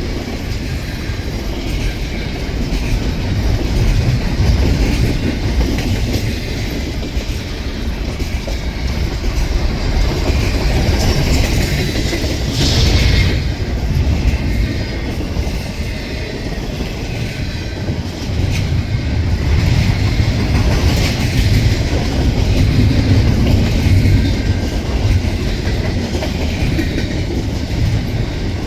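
Double-stack container train cars rolling past close by: a steady rumble of steel wheels on rail, with clickety-clack over the rail joints and a brief higher screech of wheel squeal about halfway through.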